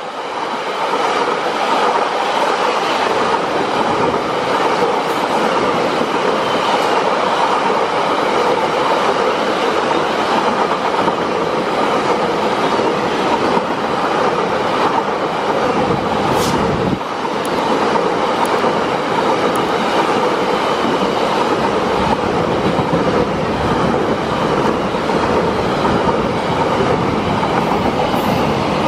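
Container wagons of a freight train running past close at speed: a steady, loud noise of steel wheels on the rails.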